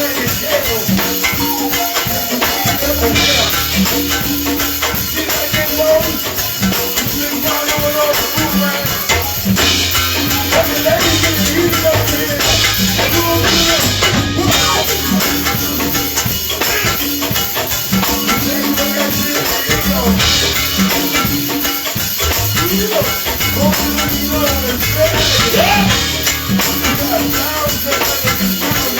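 Live band playing an instrumental passage: held bass notes under drums and shaken percussion, with the cymbal-like brightness swelling every few seconds.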